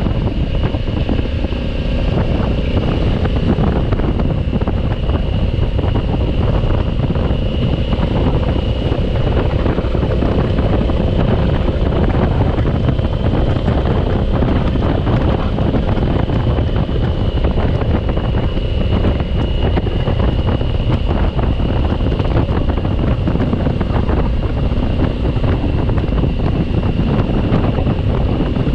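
Steady wind rush buffeting the microphone on a moving 2020 Honda Africa Twin motorcycle, with the engine and road noise running underneath, unbroken and even.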